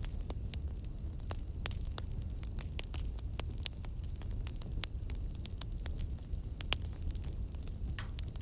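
Wood fire burning in a fireplace, with frequent irregular sharp crackles and pops over a low, steady rumble of flame.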